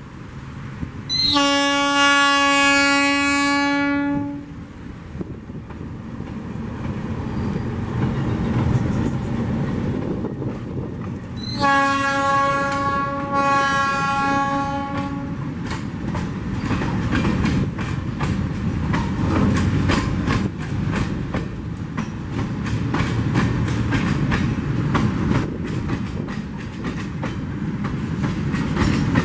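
Freight train led by an ALCO RSD-16 diesel locomotive sounding its horn twice, about ten seconds apart, with a short break near the end of the second blast, over the locomotive's engine rumble. From about halfway through, a fast run of clicks as the wheels of the loaded mineral hopper wagons pass over the rail joints.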